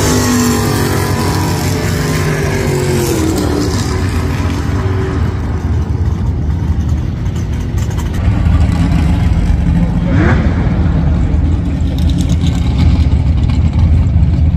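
Classic Ford Mustang's engine running down the drag strip, its pitch falling and fading over the first few seconds as the car passes and goes away. A steady low rumble follows, with a brief rising whine about ten seconds in.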